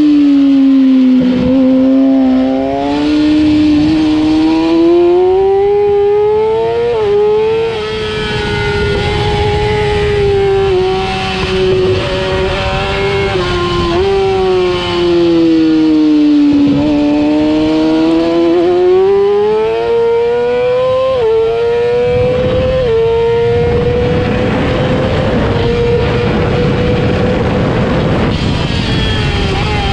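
Onboard sound of a sport motorcycle's engine and exhaust on a track lap, the pitch dropping and climbing again and again as the rider brakes, shifts and accelerates through the corners, with a few quick pitch steps at gear changes. Near the end the engine holds a high, steady note in fifth gear while wind rush builds.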